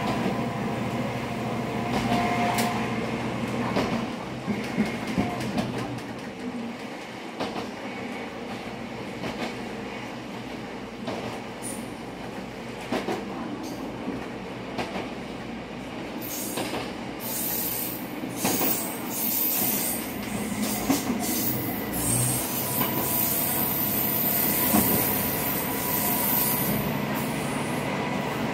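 MRT300 diesel railcar under way, heard from inside the cab: steady running noise of engine and wheels, with sharp clicks as the wheels cross rail joints. From just past halfway until near the end, a high wheel squeal as the car takes a curve.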